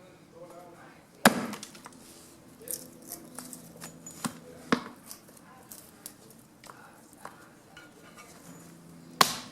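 Hand-chopping fallen branches into wood chips: a blade striking wood in irregular sharp chops. The loudest comes about a second in, two more come around the middle and one near the end, with fainter knocks and clicks between.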